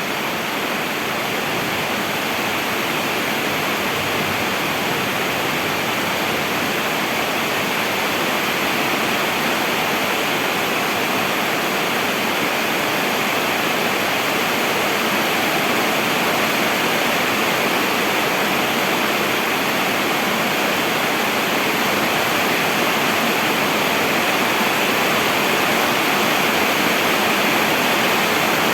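Heavy rain falling steadily: a dense, even hiss with no separate drops, thunder or other events standing out.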